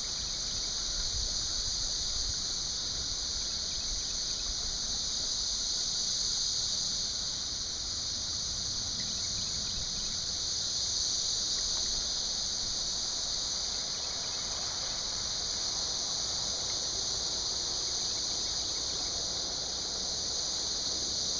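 Steady, high-pitched chorus of buzzing summer insects that carries on unbroken, over a faint low rush of creek water.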